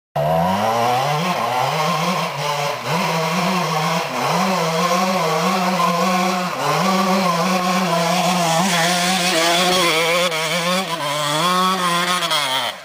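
Dirt bike engine revving hard under load, its pitch wavering up and down as the throttle is worked. It starts abruptly and cuts off suddenly near the end.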